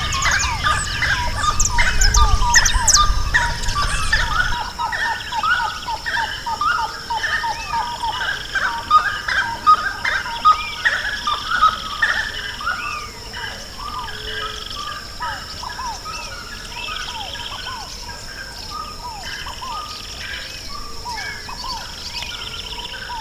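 Many birds calling and singing at once, a dense chorus of short chirps that thins out about halfway through. A steady high tone runs underneath, and a low rumble is heard during the first four seconds.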